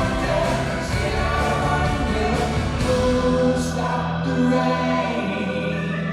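Live rock band playing with voices singing together; a low note is held from about halfway through.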